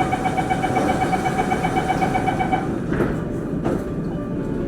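Singapore MRT train's door-closing warning: a rapid, steady beeping tone for a couple of seconds. The sliding doors then shut with two knocks, over the hum of the stationary train.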